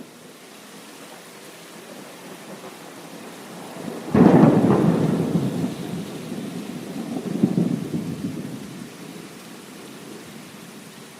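Rain falling steadily, then a sudden crack of thunder about four seconds in that rumbles on, swells again a few seconds later and slowly fades.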